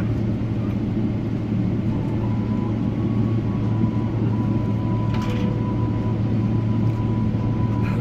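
Steady low rumble and hum inside the cabin of a Boeing 777-300ER taxiing after landing, engines at idle with the air-conditioning running, and a faint high whine coming in about two seconds in. A brief click about five seconds in.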